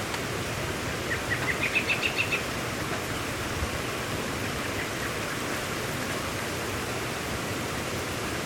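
Steady rain falling. About a second in, a bird calls a quick run of about eight short notes, rising in pitch.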